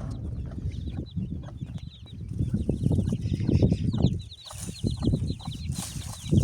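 Chickens clucking, with a rapid run of high chirps or peeps that starts about two seconds in.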